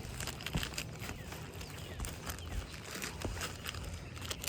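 Roofing underlayment and asphalt shingles being handled, crinkling and crackling in a quick irregular string of small clicks as the underlayment is pushed in under the lifted shingles.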